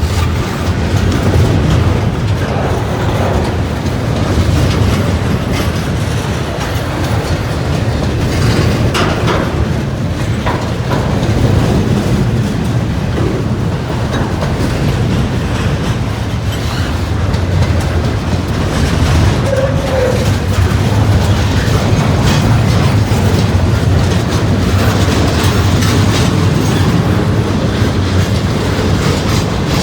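Freight cars of a long CSX freight train rolling past at steady speed, the wheels clacking over the rail joints with a continuous low rumble.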